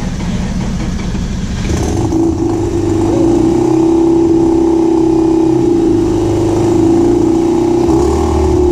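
Mazda RX-8's straight-piped two-rotor Renesis rotary engine running just after a jump start. It picks up about two seconds in, then holds at a steady raised speed with a loud, even drone.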